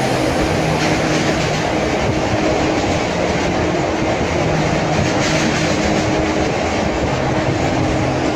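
Indian passenger train running over a steel truss river bridge, heard from inside a carriage through an open window. The wheels on the rails make a loud, steady rumble with a dense, rapid clatter that does not let up.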